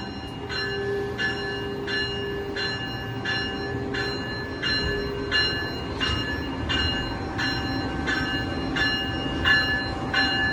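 Locomotive bell ringing steadily, about two strikes a second, over the low rumble of a train that grows louder in the second half.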